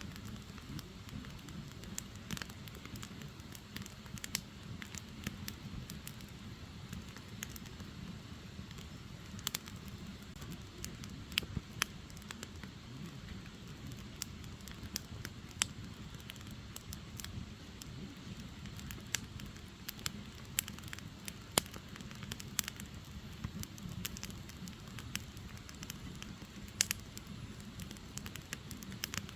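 Firewood logs burning: a steady low rush of flame with irregular sharp crackles and pops, a few of them louder.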